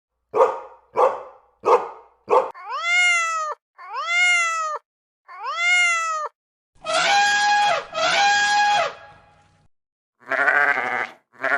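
A string of calls from several different farm animals in turn. First come four short sharp calls. Then three drawn-out calls rise and fall in pitch, followed by two long calls and, near the end, two shaky calls.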